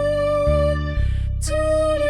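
Synthesized music: a computer-generated female singing voice holds a long note, breaks off a little before a second in and comes back on a new note about a second and a half in, over synthesized FM strings and a fingered electric bass line.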